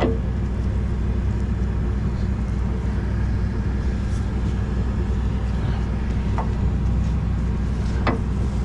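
A vehicle engine idling steadily, with a couple of short clinks during it.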